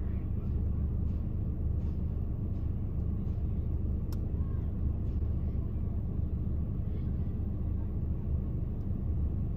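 Car engine idling, a steady low rumble heard from inside the stopped car, with a few faint knocks of split firewood being lifted from a stand.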